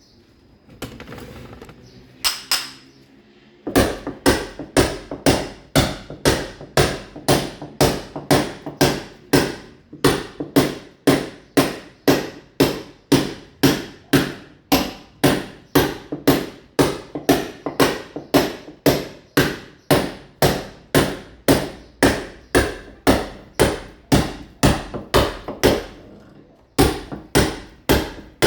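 A mason's hammer striking steadily at about two blows a second, chipping a masonry wall to roughen it for ceramic tile. It starts a few seconds in after some shuffling, and pauses briefly near the end.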